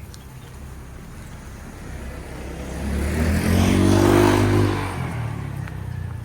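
A motor vehicle passing close by: its engine and tyre noise build up, are loudest about four seconds in, then fade.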